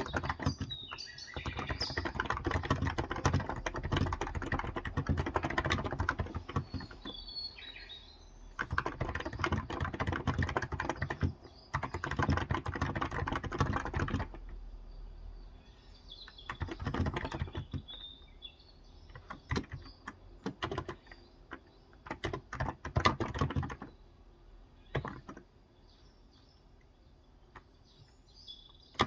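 Typing in bursts of a few seconds at a time, separated by pauses, on a Cox Endeavour tenkeyless keyboard with 35 g contactless (electrostatic capacitive) switches. Small birds chirp faintly now and then in the background.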